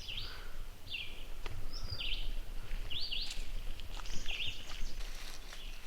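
A songbird singing short, high phrases, one about every second, with brief pauses between them. Under it runs a low steady rumble, and a few faint clicks come near the end.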